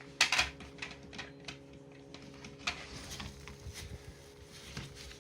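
Handling noise from plastic vacuum cleaner parts: scattered clicks, knocks and rustles, the loudest a quick cluster near the start and another sharp click a little over halfway through.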